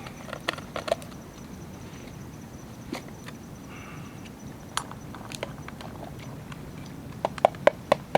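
Sharp, irregular clicks and knocks of cut potato pieces going into a metal pan: a few scattered ones, then four quick loud ones near the end.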